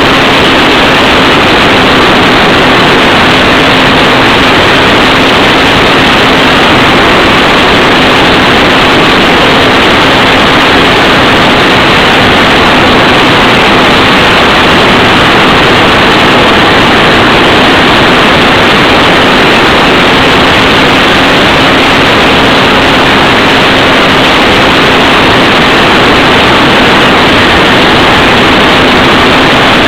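ParkZone F4U Corsair RC plane's electric motor and propeller running at a constant throttle in flight: a steady drone holding one pitch under loud, even wind rush, heard from a camera carried on the plane.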